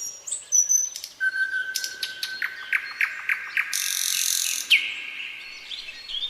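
Several birds singing and calling over one another: high whistled notes, a quick series of sharp chirps about two seconds in, and a hissing, buzzy sound lasting about a second around four seconds in.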